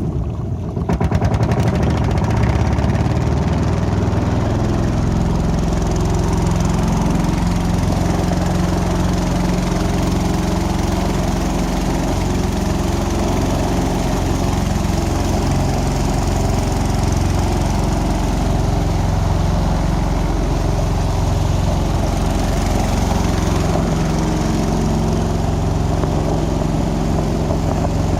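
Small boat's engine running steadily under way, a little louder from about a second in.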